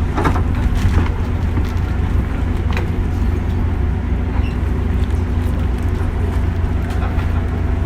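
JR West 201 series electric commuter train running, heard from inside the car: a steady low rumble of wheels on rails with a few light clicks along the way.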